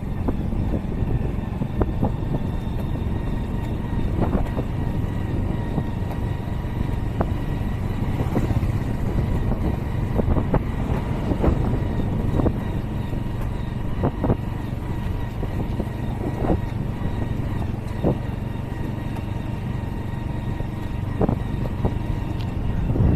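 Steady low rumble of wind and road noise while riding, with scattered sharp knocks every second or two.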